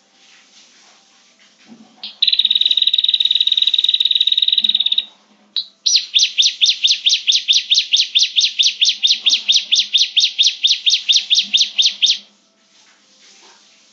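Prinia (prenjak) lure call: a loud, steady buzzing trill for about three seconds, a single short note, then a fast run of evenly repeated chirps, about six a second, for some six seconds.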